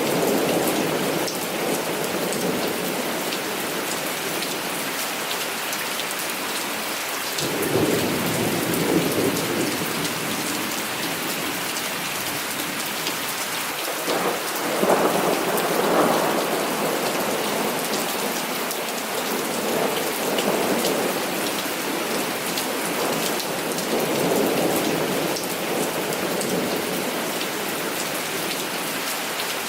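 Heavy rain falling steadily, with thunder rumbling in several slow swells, the strongest about halfway through.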